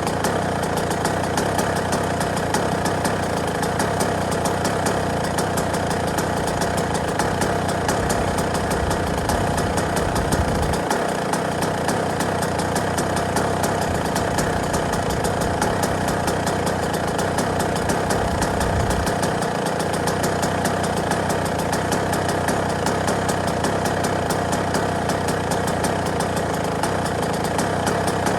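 Yamaha YZ125 motocross bike's single-cylinder two-stroke engine idling steadily, a fast even firing rhythm with no revving.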